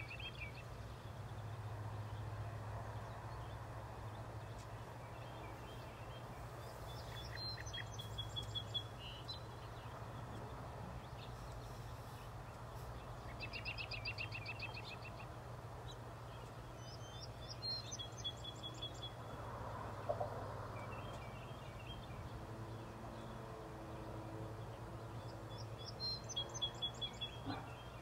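Songbirds singing short phrases every few seconds, some as quick trills, some ending on a held note, over a steady low hum of outdoor background noise.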